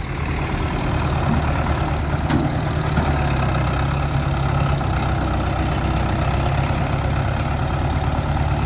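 Tractor diesel engine running steadily at a low, even idle.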